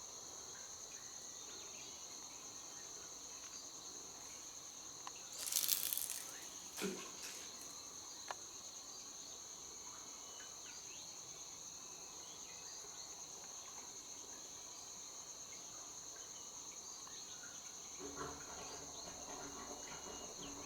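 Steady chorus of insects, two shrill high tones held throughout. About six seconds in there is a brief rustling noise, and near the end a low drone starts up; this is the eerie noise from the sinkhole that is likened to flowing water.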